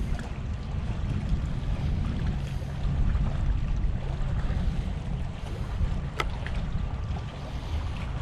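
Wind buffeting the microphone over water lapping at the shore, a steady low rumble. There is one short sharp click about six seconds in.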